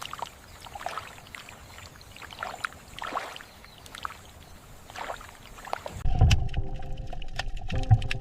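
Water splashing and lapping in irregular bursts. About six seconds in it changes abruptly to a louder low rumble with a few steady tones and sharp clicks.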